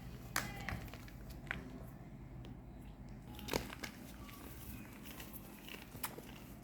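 Reformed gym chalk bars being crushed, giving a scattered few sharp crunches and cracks, the strongest about halfway through.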